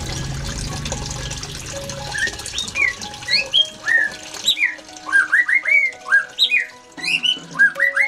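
Small cage birds giving rapid, sharp chirps, each a quick up-and-down note, coming several a second from about two seconds in. The chirps sit over a steady hiss that fades away in the first two seconds.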